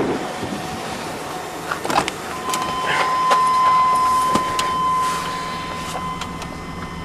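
Clicks and knocks from a pickup truck's door and latch. About two and a half seconds in, a steady electronic warning tone starts and keeps sounding.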